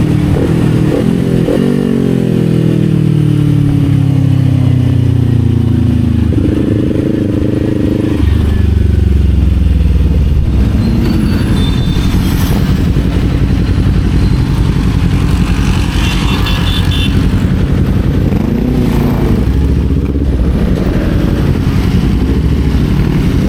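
Kawasaki Z400 parallel-twin engine slowing down, its note falling steadily for about six seconds, with two brief blips about a second in. It then runs on at low revs with a deep, steady rumble.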